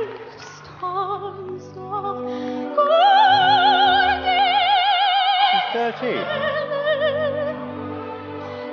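A 13-year-old girl singing in a classical style with a wide, even vibrato over sustained backing music. A few short phrases lead into a long, high held note about three seconds in, then lower held notes.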